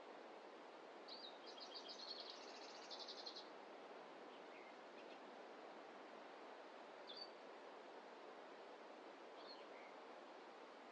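Faint forest ambience: a small songbird sings a rapid trill of quick repeated high notes about a second in, lasting about two seconds, then gives two or three single short chirps, over a steady faint hiss of background noise.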